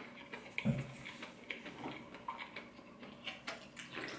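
Faint chewing and wet mouth clicks from eating crispy fried chicken strips, with scattered small ticks and a soft thump a little under a second in.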